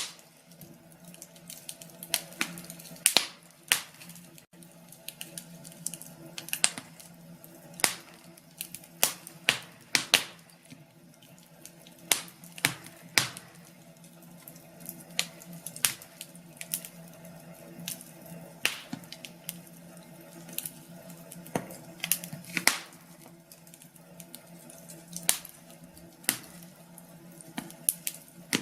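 Wood fire crackling in a fireplace: irregular sharp pops and snaps, a few louder ones standing out, over a faint steady hum.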